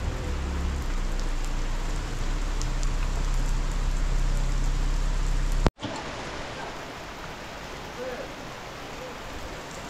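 Steady rain falling on the ground and roofs, with a low rumble under it for the first half. About halfway through the sound cuts off for an instant, and the rain carries on quieter without the rumble.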